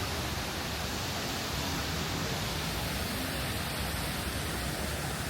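Steady, even outdoor city ambience with a hiss-like wash of noise and no distinct events standing out.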